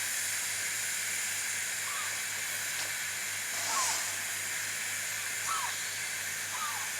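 Miniature steam locomotive standing with a steady hiss of steam, with short faint chirps and a brief louder rush of hiss about four seconds in.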